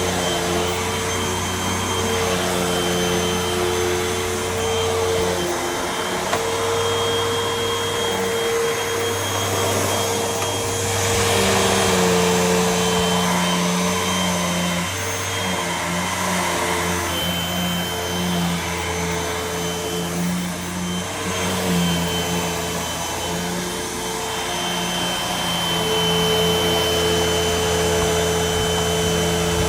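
Hoover WindTunnel upright vacuum cleaner running: a steady motor hum and rush of air whose pitch wavers slightly as the load on it changes.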